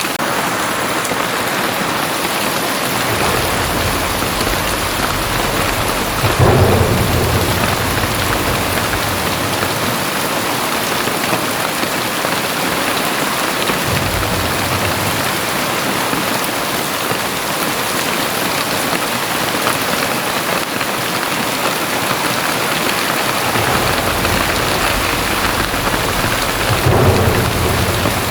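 Very heavy rain falling in a steady hiss, with two low rolls of thunder. The first swells about six seconds in and slowly fades; the second builds near the end.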